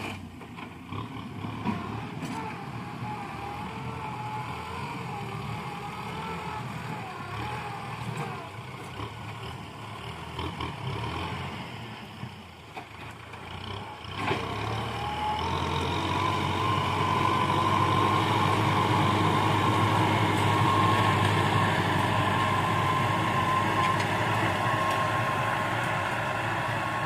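Kubota tractor's diesel engine running under load while plowing. About halfway through it drops back briefly, then picks up again and runs louder and steadier.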